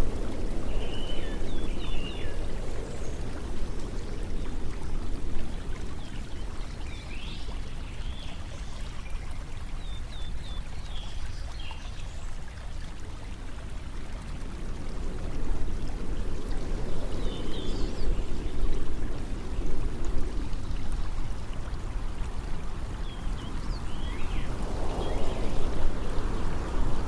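Steady rush of flowing water, swelling and easing in waves, with brief high chirps now and then.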